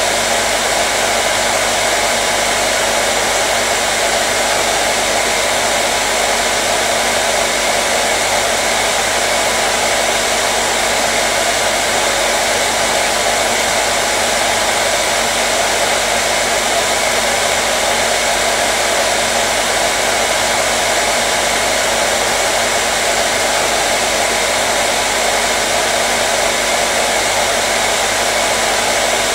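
Hair dryer running steadily, a constant even rush of air and motor hum with no change in pitch or level.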